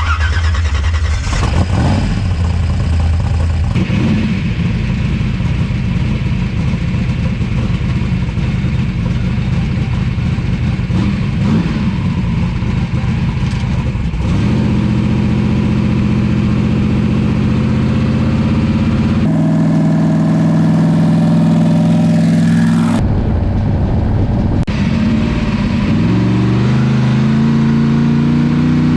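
Twin-turbo big-block Chevy V8 in a Chevrolet Nova running while being driven, its pitch holding steady and then stepping to new levels several times, rising near the end.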